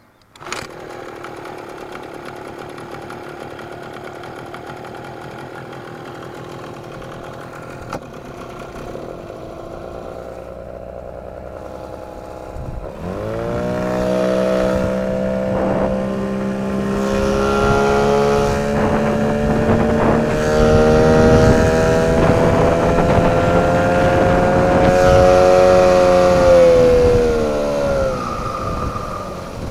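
A 9.8 hp outboard motor starts and runs at idle. About halfway through it is revved up, held at higher revs for some fifteen seconds, then let back down to idle. At higher revs a high whistle sounds over it, one that sounds like squealing brakes and whose cause the owner does not know.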